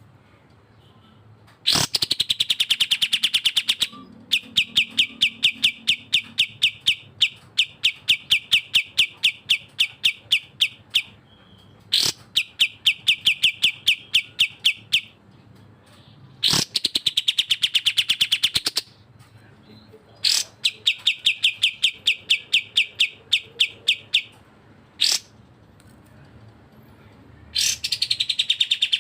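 Songbirds (cucak jenggot and kapas tembak) chirping in runs of fast, evenly repeated high notes, about ten a second. The runs are broken by short pauses and a few sharp single calls.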